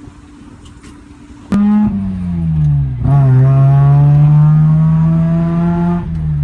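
Mazda RX-7 13B rotary engine pulling the car along: the engine note cuts in sharply about a second and a half in, sinks in pitch, then climbs steadily for about three seconds before falling away near the end.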